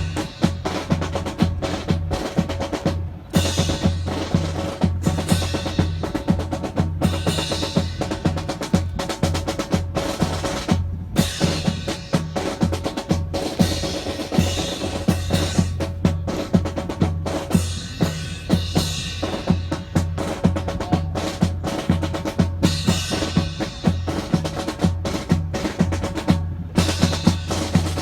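Marching drum cadence, snare rolls and rimshots over a steady bass drum beat of about two strokes a second.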